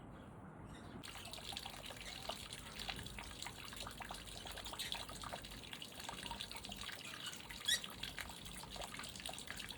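Water trickling and splashing with many small crackling drips, starting suddenly about a second in. A short rising squeak cuts through near the end.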